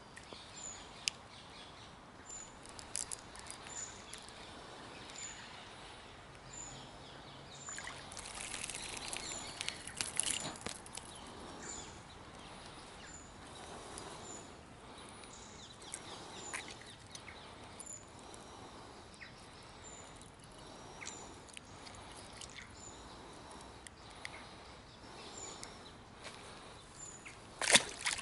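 Riverbank ambience: a small bird repeats one short, high call about once a second over a steady outdoor background, with rustling and handling noises and a sharp thump near the end.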